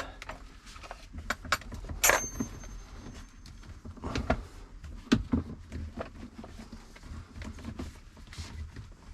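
Metal clinks and knocks from battery cable lugs and terminal hardware being handled and fitted. The loudest clink, about two seconds in, rings briefly.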